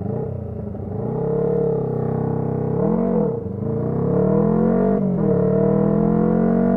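Honda CB125T's parallel-twin engine running through a loud aftermarket muffler while riding. The engine note rises and falls with the throttle, dips briefly about halfway through, then climbs and holds steady.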